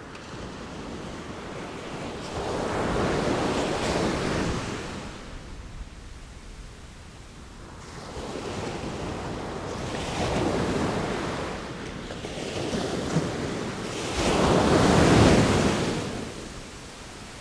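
Sea waves breaking and washing in, rising and falling in three surges a few seconds apart, the loudest near the end.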